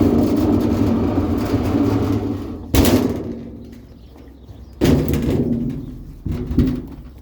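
A vehicle running with a low, steady rumble that fades off, broken by a loud bang about a third of the way in and more bangs near the end.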